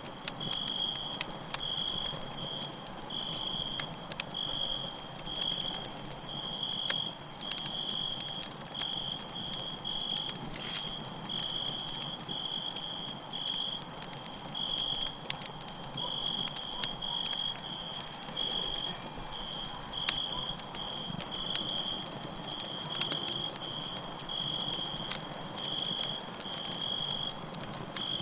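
Campfire crackling, with scattered sharp pops over a soft hiss, and crickets chirping in a steady run of short, high-pitched trills.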